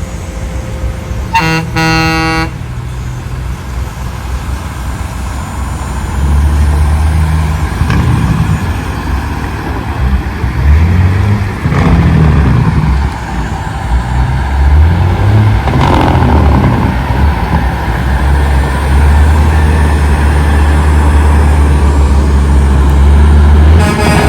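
Big-rig trucks rolling past in a convoy: a truck air horn sounds once for about a second near the start, then loud low diesel engine rumble swells and fades as trucks pass, heaviest near the end.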